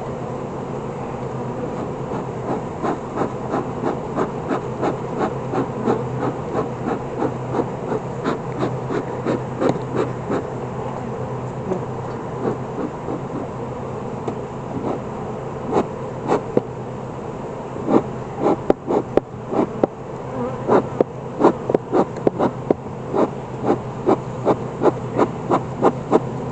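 Honeybees buzzing in a steady hum around an open hive, with a regular series of short knocks or puffs about twice a second that pause for several seconds midway and come back louder near the end.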